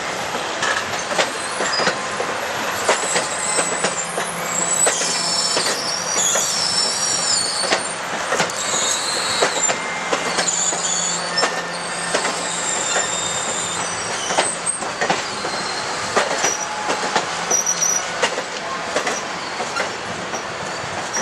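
A circus train's cars rolling slowly past, wheels knocking and clacking over the rail joints, with high-pitched wheel squeal from about four seconds in until about halfway through.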